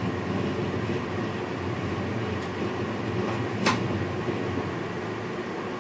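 NS VIRM double-deck electric train running, its steady rolling noise heard inside the driver's cab, with a sharp click about halfway through.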